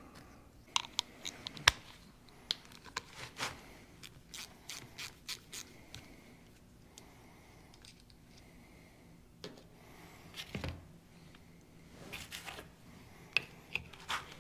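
Small metal parts and hand tools clicking, tapping and scraping as a diesel injection pump is taken apart. The clicks come irregularly, with the sharpest near two seconds in and again near the end.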